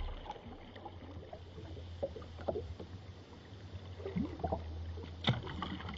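Kayak paddle strokes splashing and dripping in water, with scattered small splashes and one sharp knock about five seconds in.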